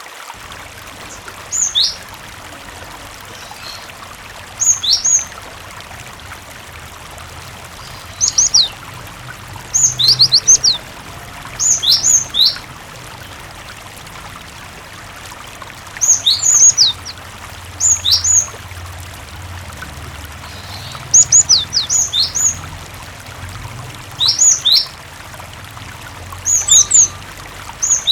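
Cinereous tit (gelatik batu) singing short phrases of two to four sharp, downward-sweeping whistled notes, repeated every couple of seconds. Under it runs a steady wash of flowing water.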